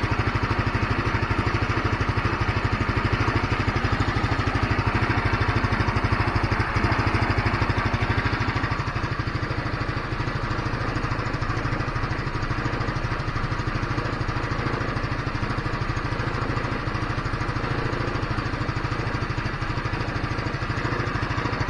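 GY6 150cc four-stroke scooter engine idling steadily, holding its RPM after its clogged carburetor main jet was cleaned, no longer dropping revs and dying out. It runs a little faster for the first several seconds, then settles to a slightly lower, even idle.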